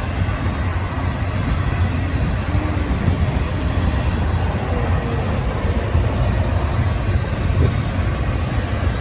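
Union Pacific freight train rolling past, a loud, steady rumble of its wheels on the rails.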